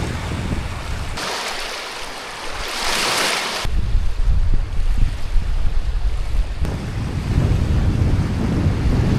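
Waves washing on the shore with wind buffeting the microphone. About a second in, the low wind rumble drops out for a couple of seconds while the hiss of the water swells, then the rumble comes back.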